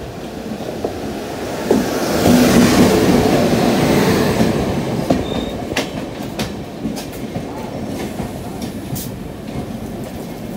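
An electric express train on the adjacent track passing close by, its WAP7 locomotive loudest about two to four seconds in, followed by its coaches rumbling past with the clickety-clack of wheels over rail joints.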